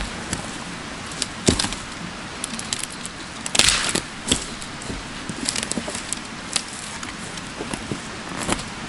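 Scattered small clicks, clinks and rustles of things being handled, with a longer rustle about three and a half seconds in, over a steady background hiss.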